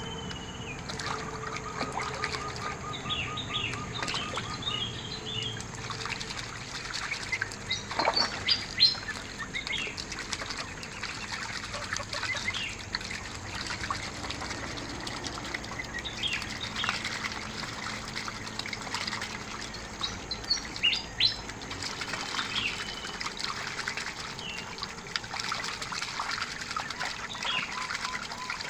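Whistling ducks giving short, high whistled calls at scattered moments over a steady trickle of water.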